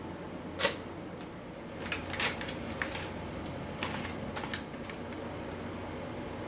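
A few short, sharp clicks and light taps over a low steady hum, the loudest about half a second in and smaller ones scattered over the next few seconds.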